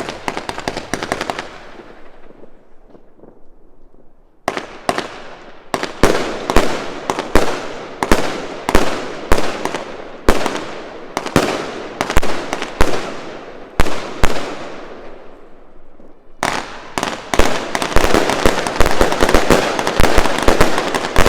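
Gemstone Fireworks 'Kingdom' firework firing. It opens with crackling, then lets off a steady run of loud bangs roughly every two-thirds of a second, each with a ringing tail. For the last five seconds it breaks into a dense, rapid barrage of bangs and crackle.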